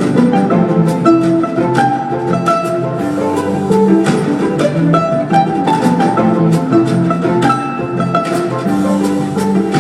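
Instrumental music of plucked and bowed strings, a busy pattern of plucked notes over held violin-like tones, with no singing.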